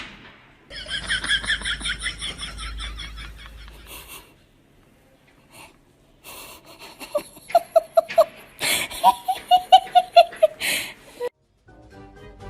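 People laughing. First a high-pitched giggling run, then, after a short pause, a lower laugh in quick repeated bursts.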